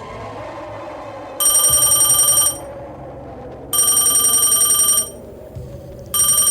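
A phone ringing with a trilling, bell-like ringtone: three rings about a second long each, with short gaps between them.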